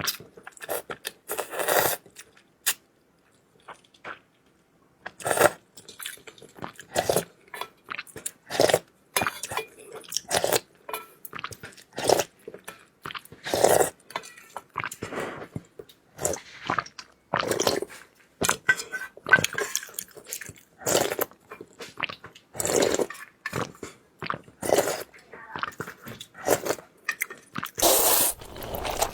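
A person eating noodles up close: chewing and biting with crisp crunching sounds, coming irregularly every second or so, with a pause of a couple of seconds near the start.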